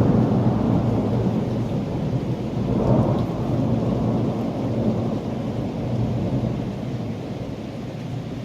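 Rolling thunder rumbling low and slowly dying away, with a fresh swell about three seconds in, over steady rain.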